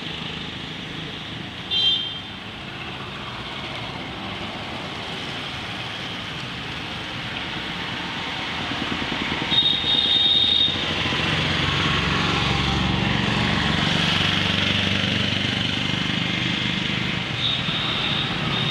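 Motorcycle riding in highway traffic: steady engine and road noise that grows louder from about eight seconds in. Vehicle horns honk over it, a short toot about two seconds in, a longer blast around ten seconds, and another near the end.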